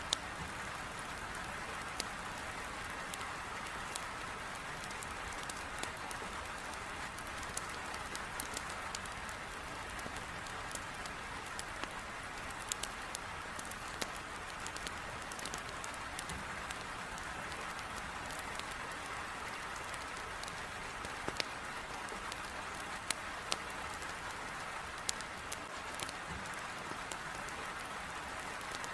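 Heavy rain beating on a window, a steady hiss, mixed with a wood fire crackling in a fireplace: scattered sharp pops of burning logs.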